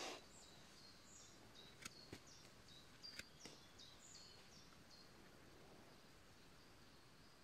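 Near silence in a forest, with faint, short, high bird chirps throughout and a few soft clicks about two and three seconds in.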